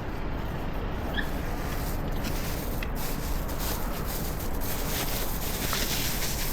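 Steady city-street background noise with a low rumble, and a few faint short chirps.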